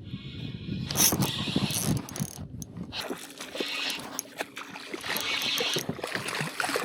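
Fishing reel cranking and ratcheting as a red drum is reeled in, with many irregular clicks and rustles.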